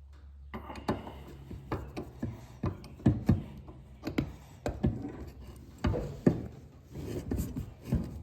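Hands working on a Delco shock absorber as it is being filled with fluid: an irregular run of light knocks and clicks of metal parts being handled.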